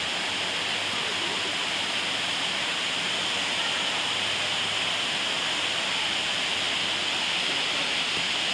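Steady rushing of water, as from a waterfall or fast stream, unbroken throughout.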